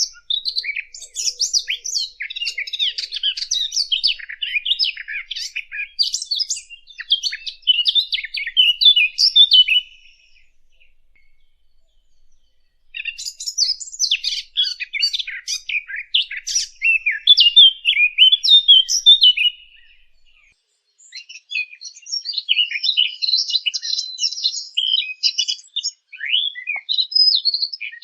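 A songbird singing long, rapid twittering phrases of high chirps and trills. It comes in three bouts of several seconds each, with short pauses between.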